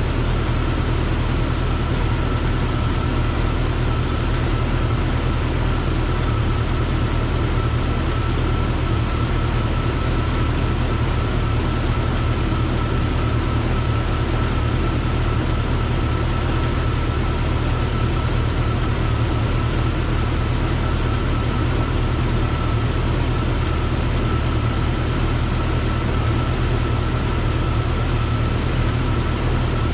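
1998 Jeep Cherokee XJ's 4.0-litre straight-six engine idling steadily, with a steady high whine over the engine note. It is running to work the air out of the cooling system after a new water pump.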